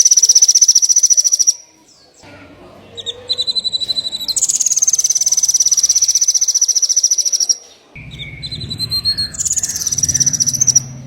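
A small songbird's high, very rapid trill, sung in phrases of about one to three seconds that leap up in pitch at the start and then slowly slide down, with short pauses between. A low hum comes in during the last few seconds.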